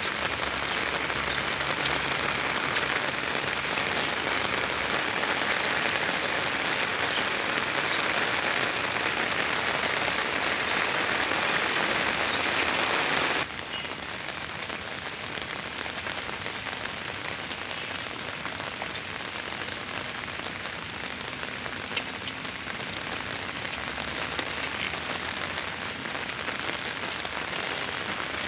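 Rain falling steadily on a wet concrete rooftop and into puddles: a constant hiss with many small drop splats. About halfway through, the sound drops suddenly to a quieter, softer patter.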